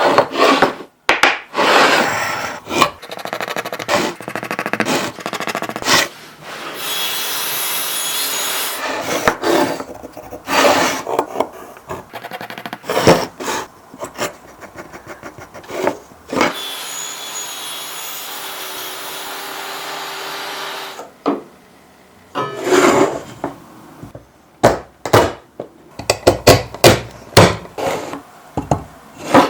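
Woodworking shop sounds: wooden parts knocked, rubbed and slid against each other, with two stretches of steady sawing through wood. Near the end comes a dense run of sharp knocks as the wooden joint pieces are tapped together.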